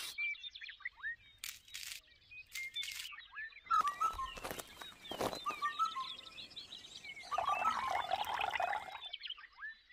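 Small birds chirping repeatedly in the background, over a few sharp taps and scrapes. A thin stream of water is poured into a small toy mixer drum near the end.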